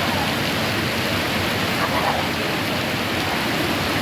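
Heavy rain from a rainstorm, falling steadily as an even hiss.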